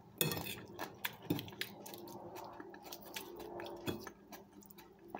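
Close-up eating sounds: a person biting into and chewing a cherry tomato and dressed salad, with many small wet crunches and mouth clicks.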